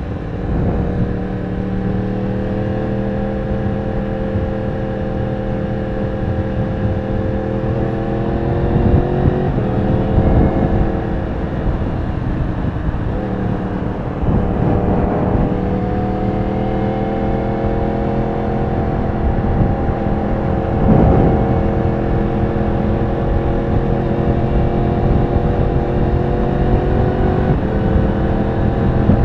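Yamaha R1 sport bike's inline-four engine running steadily under way, its pitch creeping slowly up and stepping back down a few times as the revs change, with wind and road noise throughout.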